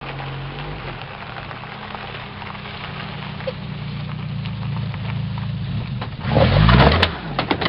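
Car engine running steadily as the car rolls slowly over rough grass, then revving hard about six seconds in as it runs into a muddy ditch, with a few sharp knocks near the end.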